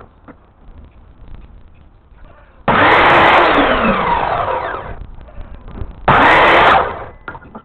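A handheld electric power tool's motor switched on twice. The first run lasts about two seconds and winds down falling in pitch, and a shorter burst follows about a second later.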